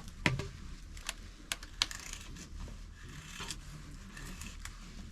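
A few irregular light clicks and taps, like small hard objects being handled, the sharpest about a quarter second in.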